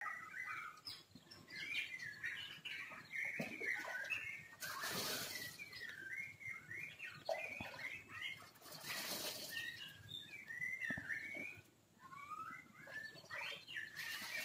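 Small birds chirping continuously, a quick run of short rising and falling chirps. About five and nine seconds in, and again near the end, there are short bursts of rustling noise lasting about a second each.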